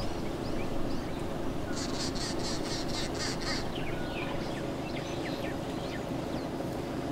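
Wild birds calling: a rapid run of about eight harsh notes lasting under two seconds, about two seconds in, with scattered short chirps, over a steady low rumble.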